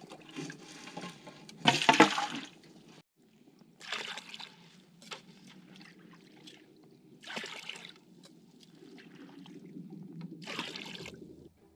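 Water from a small stream being scooped into a bucket through a hole in thin ice: four splashing bursts, the loudest about two seconds in, with the stream trickling steadily between them.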